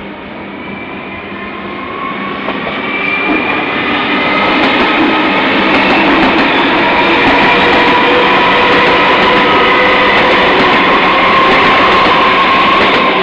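Passenger train hauled by Clyde Engineering T-class diesel-electric locomotives running on the rails, growing louder over the first few seconds and then holding steady, with thin high tones over the running noise.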